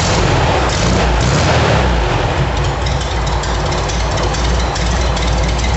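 Rebuilt 1300 cc Okrasa-kit Volkswagen air-cooled flat-four running steadily on an engine stand just after starting up.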